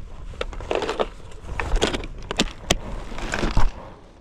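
Handling of plastic fishing tackle and a swimbait: a string of sharp clicks and knocks with short bursts of rustling, over a steady low rumble.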